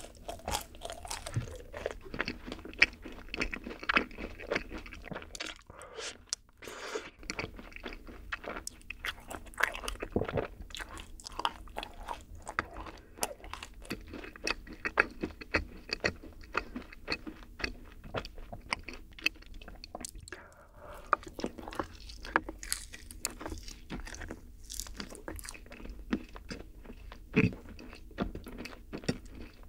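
Close-miked chewing and biting of yakgwa, a Korean honey-fried cookie, topped with vanilla ice cream: a dense, continuous run of short crunching clicks.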